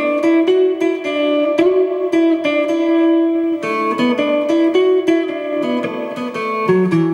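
Electric Jaguar-style kit guitar being played: a slow melody of sustained single notes and chords, each note ringing on before the next.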